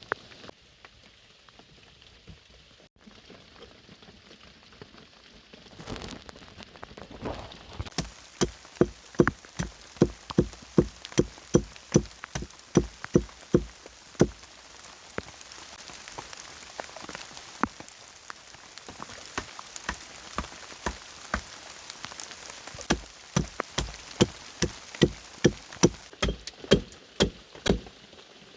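Steady rain patter. About eight seconds in it is joined by a long run of sharp, regular knocks, two to three a second, with a couple of short pauses.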